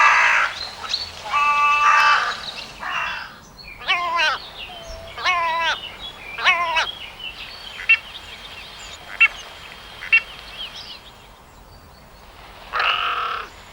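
Common raven calling: several harsh calls, a run of wavering, gurgling calls, then a few short sharp clicks, and another harsh call near the end.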